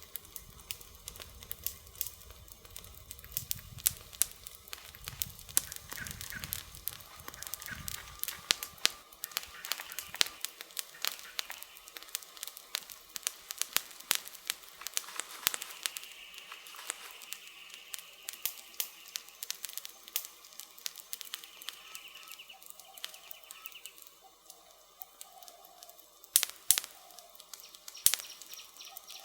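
Wood fire crackling, with frequent sharp snaps and two loud pops near the end. A low rumble accompanies the crackling for the first third.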